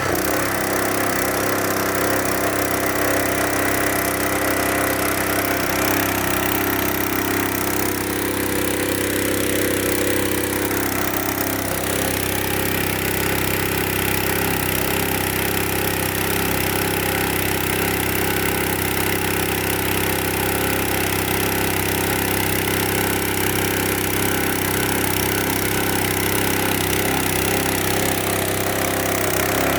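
Engine running steadily, driving the pump that fills a truck's water tank. A tone glides slowly upward from about six seconds in and drops away again about eleven seconds in.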